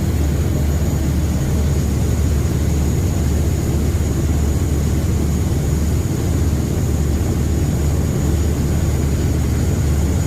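River boat's engines running steadily, a loud, unbroken low drone heard on board.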